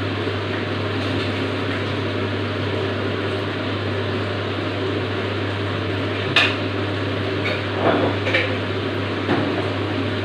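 Chicken giblets sizzling steadily as they fry in hot oil in a pan. A few sharp knocks of a utensil against the pan come in the second half, over a steady low hum.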